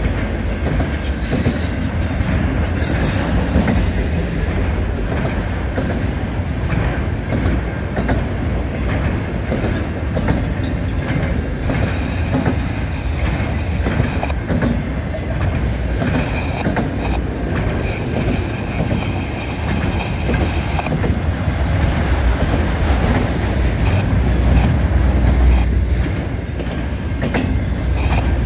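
CN Railway train cars rolling past, steel wheels clicking and clattering over the rail joints with a steady heavy rumble. A high-pitched wheel squeal sounds in the first few seconds, and a lower squealing ring comes and goes around the middle.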